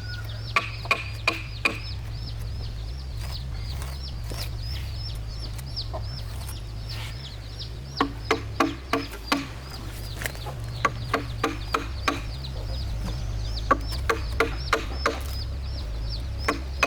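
Chickens clucking in short clusters, with rapid high chirping throughout over a steady low hum.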